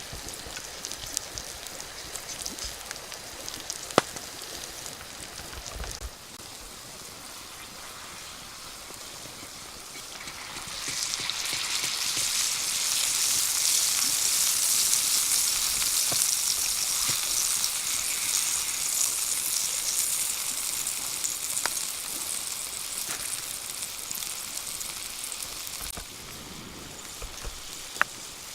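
Fish sizzling as it cooks on a hot stone: a steady hiss with a few sharp ticks. The hiss swells much louder about eleven seconds in and falls back near the end.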